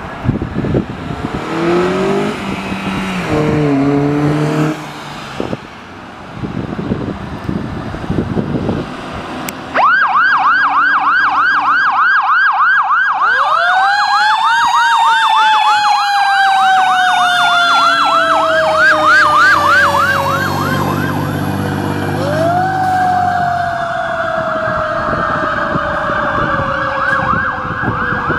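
Fire apparatus responding: for the first ten seconds a heavy truck engine pulls away, its pitch stepping up and down. Then a fast yelp siren starts suddenly, and a second siren winds up to a wail and slowly falls away, winding up again about three-quarters of the way through.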